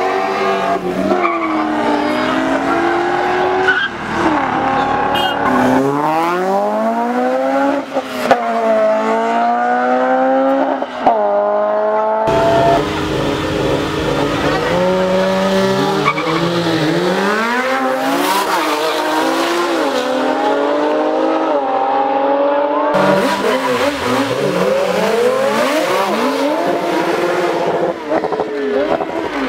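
Street-race cars' engines revving hard and accelerating, the engine note climbing in pitch and dropping back at each gear change, over and over, with tyres squealing. The sound changes abruptly a few times as one run gives way to another.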